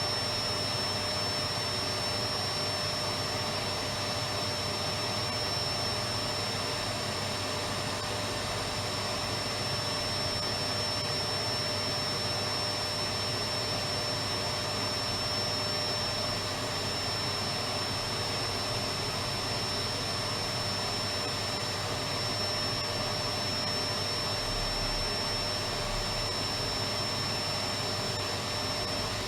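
Electric vacuum cleaner running steadily, an even rushing hiss of air with a constant high motor whine.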